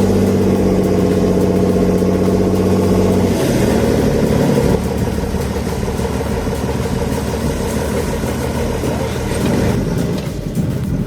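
A forestry machine's engine running with a steady hum. About three and a half seconds in, the hum breaks into a rougher, noisier running sound that carries on to the end.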